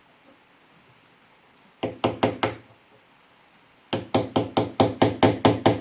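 Rapid knocking: a short run of about four hard strikes, then, two seconds later, a longer run of quick, even strikes at about five or six a second, each with a dull low thud.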